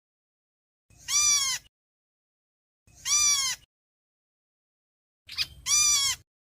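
Flock-gathering calls of the bird known in Vietnamese as 'héc xoan' (chim héc xoan): three calls about two seconds apart, each rising then falling in pitch. A short, quick note comes just before the third.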